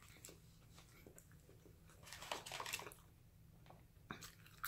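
Faint chewing and mouth sounds of a person eating, with a louder stretch of chewing about two seconds in and a couple of small clicks near the end.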